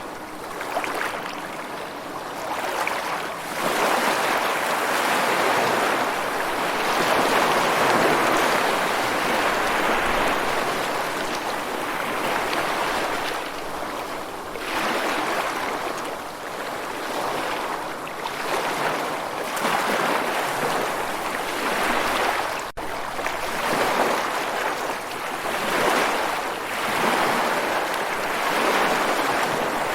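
Ocean surf: waves washing in and receding, a steady rushing that swells and fades every few seconds, with a momentary dropout about 23 seconds in.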